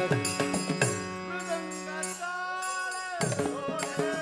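Instrumental passage of a live devotional bhajan between sung lines: sustained accompanying notes under a gliding melodic line. The rhythmic hand percussion stops about a second in and comes back near the end.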